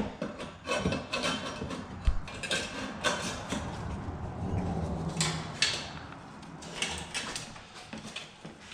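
Metal clinks, taps and scrapes of an exhaust tip being handled and slid onto a muffler outlet, irregular throughout.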